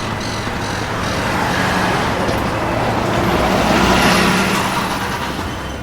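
Motor vehicle engine and road noise, added as a sound effect, growing louder to a peak about four seconds in and then fading, as when a vehicle drives past.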